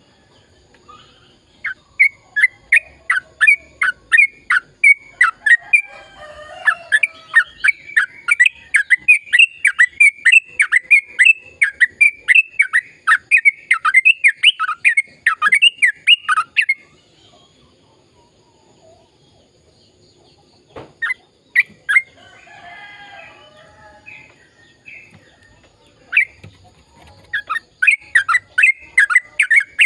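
Yellow-vented bulbul (trucukan) singing in full voice: a long, rolling run of quick, loud chirping notes, about three a second. The song breaks off for several seconds midway, with only a few notes and soft chatter, then picks up again near the end.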